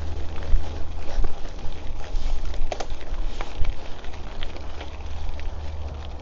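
Cyclocross bike riding a bush trail: tyres crackling over the rough surface with small irregular clicks and rattles from the bike, over a steady low wind rumble on the microphone.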